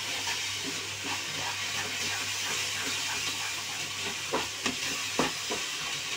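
Sweetened grated papaya halwa sizzling steadily in a nonstick kadai as a wooden spatula stirs it, with a few spatula knocks against the pan about four to five seconds in.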